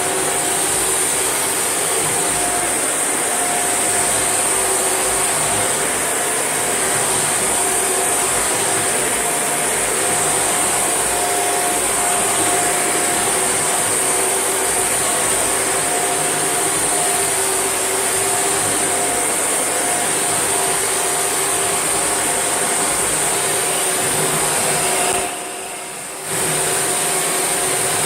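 Shark NV801UK upright vacuum cleaner running steadily, a whirring motor with a steady high hiss. Its sound drops briefly about 25 seconds in, then comes back at full level.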